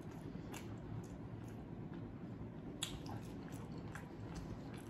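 A person chewing food close to the microphone: faint wet mouth sounds and soft clicks, one a little sharper about three seconds in.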